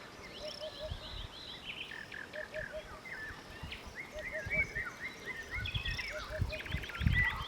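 Eurasian hoopoe calling its low, soft three-note 'oop-oop-oop', the triplet repeated about every two seconds, with other small birds chirping and trilling higher over it. A few low thumps come near the end.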